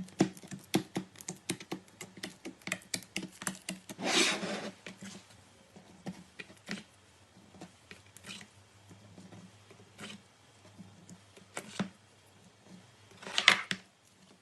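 Crunchy slime being squeezed and pressed by hand, giving a string of small crackling clicks and pops, dense at first and sparser later, with a louder crunch about four seconds in and another near the end.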